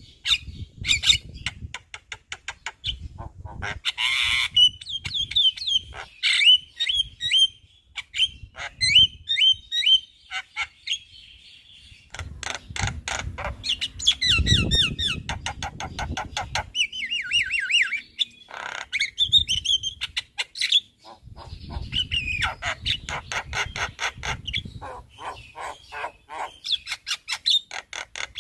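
Javan myna in full, energetic song ('gacor'), running through a long, rapid medley of harsh chatter, clicks and gliding whistles from its repertoire of mimicked calls, with a few short pauses. A low rumble rises under it about halfway through.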